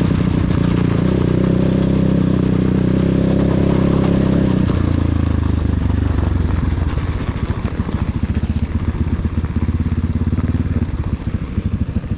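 Enduro motorcycle engine running steadily, then dropping to a lower, slower note about five seconds in as the revs fall. Near the end it settles to a quieter, lumpy low-rev putter.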